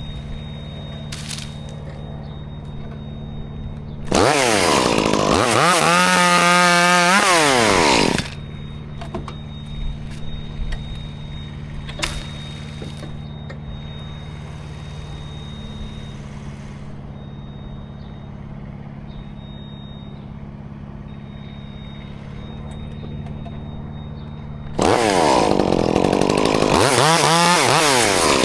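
Chainsaw revved up and cutting twice, each time for about four seconds, its pitch rising, holding, then dropping back to idle. A steady low engine hum carries on in between.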